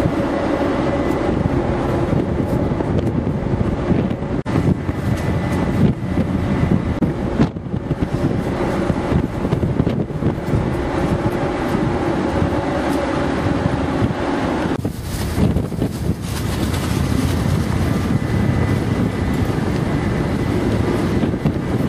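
Wind buffeting the microphone over a steady mechanical drone from a ferry's engines and machinery, with a few faint steady tones in it.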